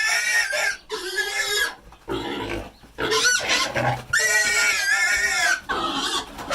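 Pigs squealing in a run of loud, high squeals, about six in a row, the longest about a second and a half, as the sows fight and bite one another.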